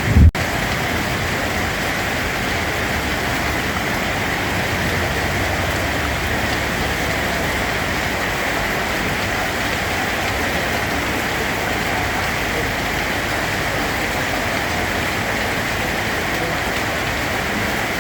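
Steady, heavy rain falling on a surface, an even unbroken hiss. Just after the start there is a brief low thump and a split-second gap in the sound.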